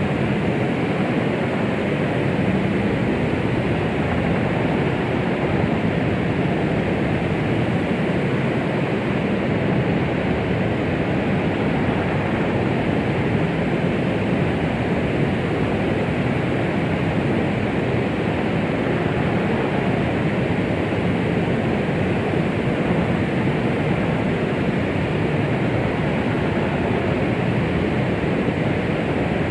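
Steady white noise meant to imitate the sound inside the womb: an even, muffled rushing hiss, heavier in the low and middle range, with no breaks or changes.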